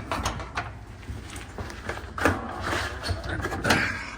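Sheet-metal top of a Kenmore direct-drive washer being worked loose from its spring clips and lifted: several sharp clicks and knocks, then scraping, rattling handling about halfway through and again near the end.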